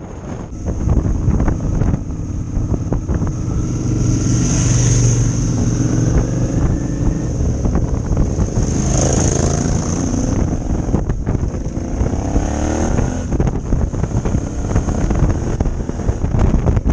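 Motorcycle engine under way, accelerating with its pitch climbing several times as it revs up through the gears, over steady wind rush.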